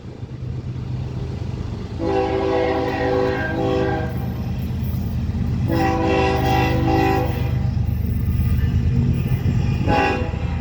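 Ferromex diesel freight locomotive sounding its multi-note air horn: two long blasts and a short one near the end, over the steady rumble of the locomotive's engine running.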